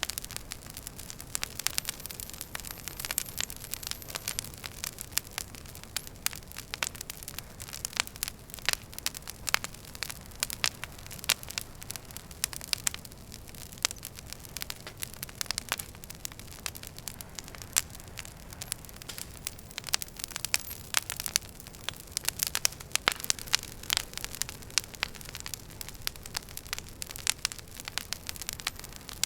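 Wood fire crackling in a fireplace: a steady run of sharp pops and snaps from the burning logs over a soft low rumble of the flames.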